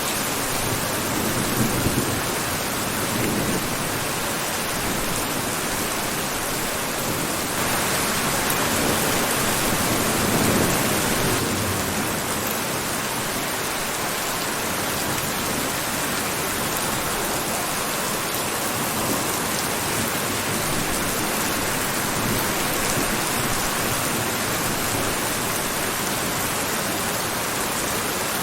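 Steady rain falling, an even hiss that swells a little louder around eight to eleven seconds in.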